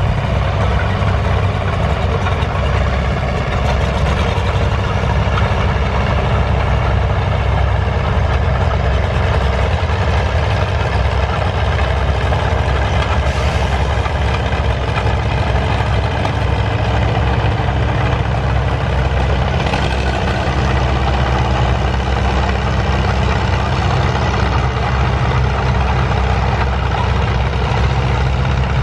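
An engine idling steadily at an even, low pitch, with no change in speed.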